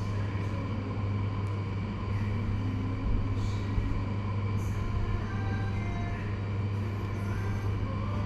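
Steady low hum, with faint higher tones coming and going and a few brief soft hisses.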